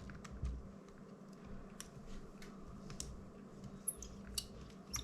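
Faint, scattered small clicks and ticks of a precision screwdriver working tiny screws out of a DJI Mini 2 drone's plastic GPS mount, over a steady low hum.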